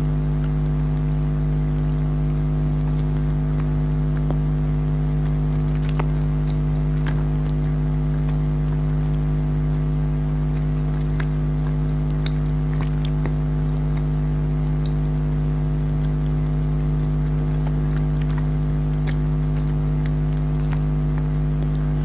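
A steady, even hum with several fixed tones, loudest throughout, with faint scattered clicks and smacks of someone chewing jelly candy.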